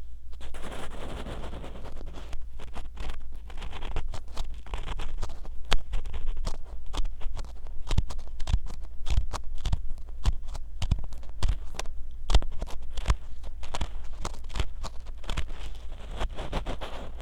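Ear pick scraping and scratching inside a binaural microphone's silicone ear, very close up. It makes a dense run of sharp, irregular crackling clicks over a rubbing scrape and a low rumble, with rubbing strongest at the start and near the end.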